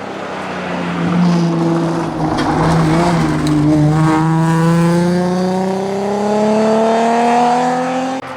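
Alfa Romeo 156 GTA rally car's V6 engine held at fairly steady revs, then accelerating hard in one long pull, its pitch rising steadily for about four seconds before cutting off abruptly near the end.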